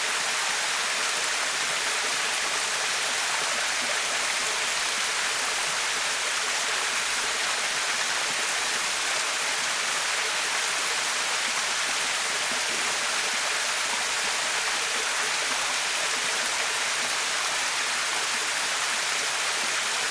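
Small waterfall about 3 m high, its water splashing down into a pool with a steady, unbroken rush that is strongest in the middle and upper pitches.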